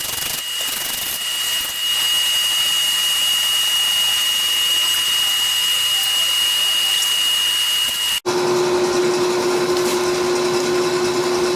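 Forge fire with its air blower running: a steady rushing noise with a constant hum, as the steel is brought up to forge-welding heat. The sound cuts out for an instant about eight seconds in and resumes with a lower hum.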